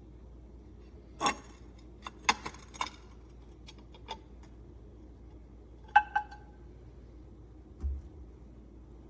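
Glass food storage containers and their lids being handled: scattered clinks and taps, a pair about six seconds in that ring briefly like glass struck on glass, then a dull thump near the end.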